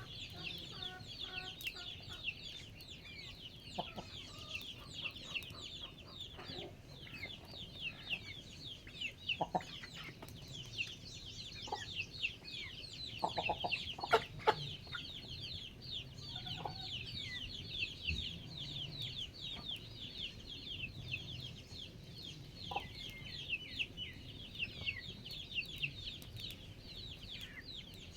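Backyard chickens calling, with a dense, unbroken chatter of quick, high, falling chirps and a few short lower calls and knocks, the loudest about halfway through.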